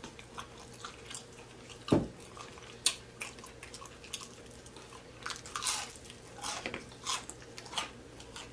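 Chewing and biting into fried, breaded fish, heard close up: irregular short crunches and crackles, with a single dull thump about two seconds in.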